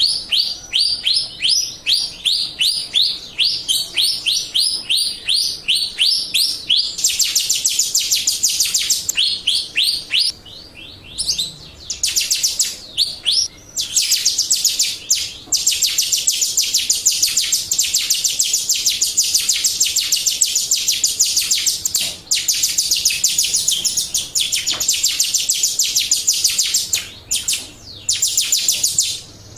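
Jalak Rio song from a lure recording. It opens with a run of quick, repeated, high down-slurred whistles, about four a second. Then come long bouts of dense, high, rapid chattering, broken by a few short pauses.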